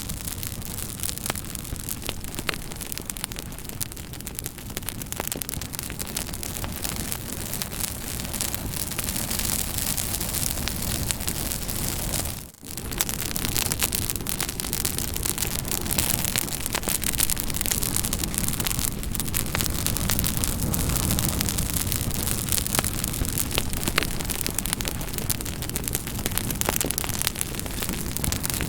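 Campfire burning, with a steady hiss and many sharp crackles and pops from the burning wood. The sound drops out briefly about halfway through.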